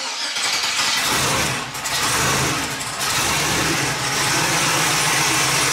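Twin-turbo LS V8 engine running after a start, unsteady at first with two brief dips in level, then settling into a steady run as it warms up.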